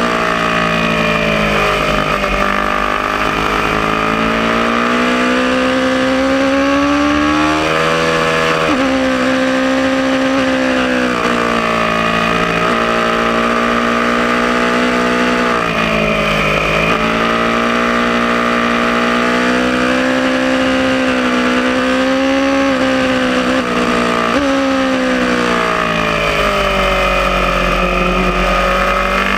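Aprilia Tuono motorcycle engine under load on a racetrack. Its pitch climbs steadily and then drops sharply several times as the bike accelerates, shifts and slows for corners.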